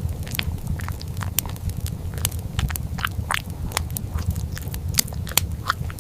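Food being bitten and chewed: rapid, irregular crunchy clicks and smacks, with a few short squeaky mouth sounds, over a steady low hum.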